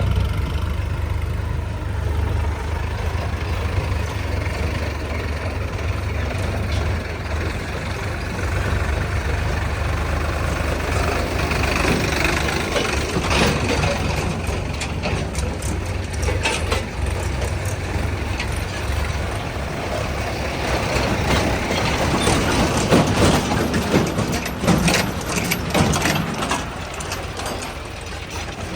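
Mahindra Arjun 605 tractor's diesel engine running steadily under loader work, with bouts of clattering knocks partway through and again near the end.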